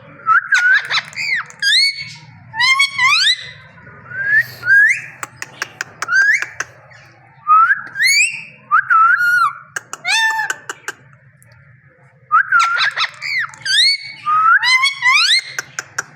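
Pet parrot whistling: a run of short whistles, most gliding upward, broken by quick clicking trills, with a short pause near the end.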